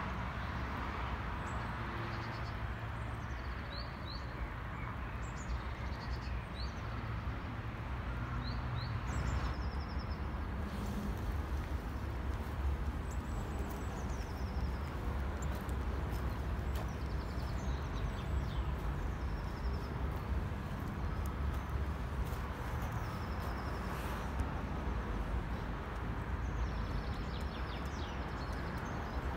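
Small birds chirping and trilling now and then over a steady low rumble.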